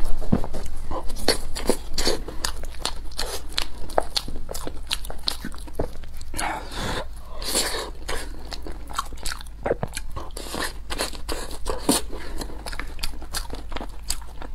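Close-miked chewing and crunching of curry rice with fried battered rings, full of wet mouth clicks and smacks.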